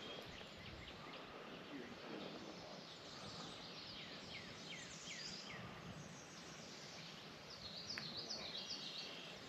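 Quiet outdoor ambience: a faint, steady hiss with birds calling over it. There is a run of short downward-sweeping notes around the middle, then a quick series of short high notes near the end.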